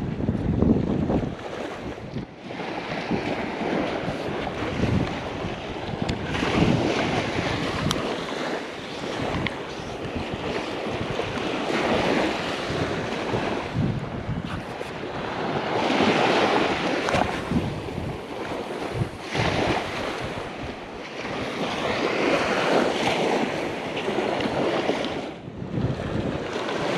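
Ocean surf breaking and washing on a beach, the rush swelling and easing every few seconds, with strong wind buffeting the microphone.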